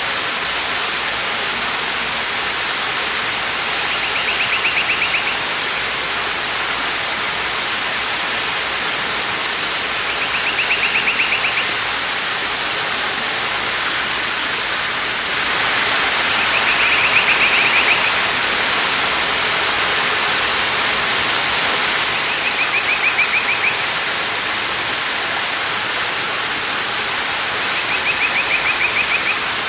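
Steady rushing of a waterfall, getting somewhat louder about halfway through. A short, high, buzzy trill of about a second and a half repeats roughly every six seconds, five times in all, with a few faint high chirps between.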